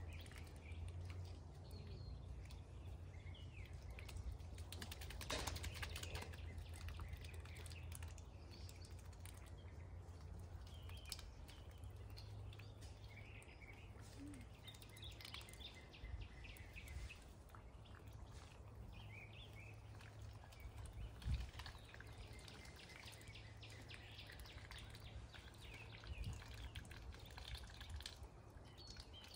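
Faint outdoor ambience: small birds chirping now and then over a low steady hum, with one brief thump about two-thirds of the way through.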